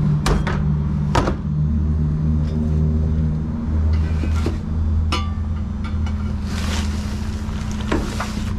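A vehicle engine idling steadily, with several sharp metal clanks and a rasping scrape near the end as scrap steel is handled.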